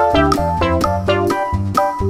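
Upbeat background music: a jaunty piano-led tune over a bouncing bass line with a steady beat.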